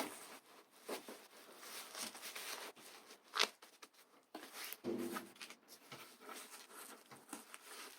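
Faint rustling and soft clicks of disposable pull-up training pants being handled and tucked around a box under a rubber band, with one sharper tap about three and a half seconds in.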